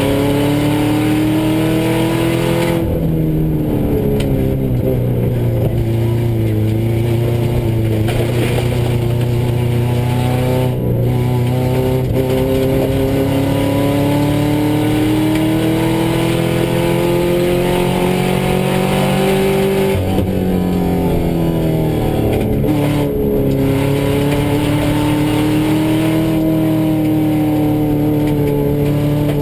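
Subaru rally car's flat-four engine heard from inside the cabin, pulling hard at speed: its pitch climbs slowly and drops sharply several times at gear changes and lifts.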